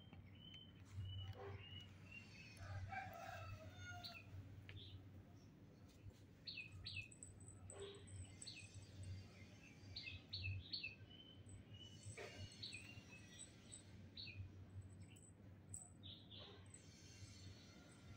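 Faint small birds chirping: short, scattered calls and quick pitch sweeps, over a low steady hum.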